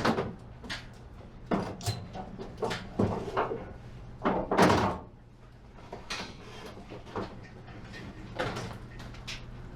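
Scattered clunks and knocks as a barbecue grill is lifted and shifted into place for loading, the loudest about four and a half seconds in, over a low steady hum.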